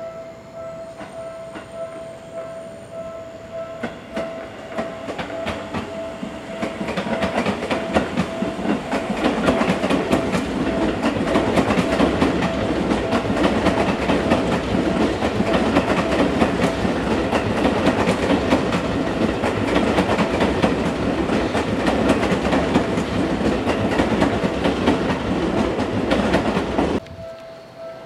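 Seibu Railway electric commuter train running past on the tracks, its wheel noise and clickety-clack over the rail joints building over the first several seconds to a loud, steady rumble. The sound cuts off suddenly near the end.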